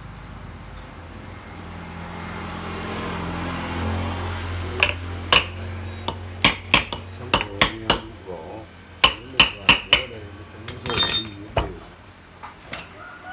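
A low rumble through the first half, then a string of about fifteen sharp metallic clinks and knocks at uneven intervals, like metal tools and parts being handled and set down.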